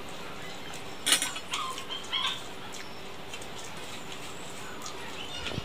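A person chewing a mouthful of rice and egg, with wet lip-smacking and mouth clicks, loudest in a sharp smack about a second in and a short cluster around two seconds, over a steady background hiss.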